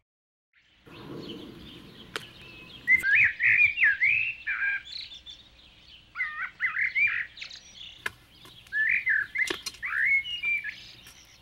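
After about a second of silence, a songbird sings three short bursts of swooping, whistled chirps over a faint steady hum.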